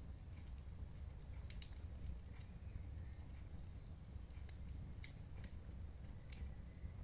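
Wood fire burning in a fireplace: irregular sharp crackles and pops, several scattered through, over a steady low rumble.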